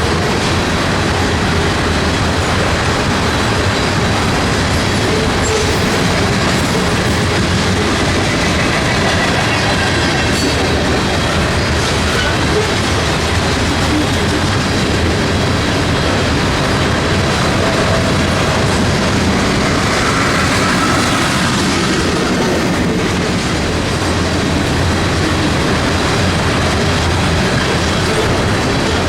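Train cars rolling past on the rails, a steady loud rumble and clatter of wheels, with faint high wheel squeal twice.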